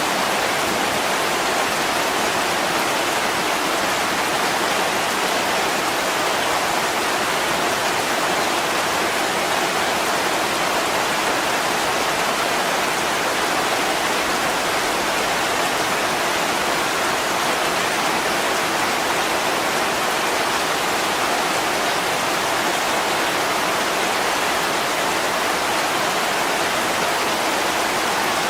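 Heavy rain falling steadily: an even hiss with no breaks, and no single drops or crackles standing out.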